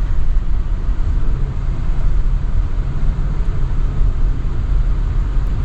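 Steady road noise and engine rumble inside a moving car's cabin, heavy in the low end.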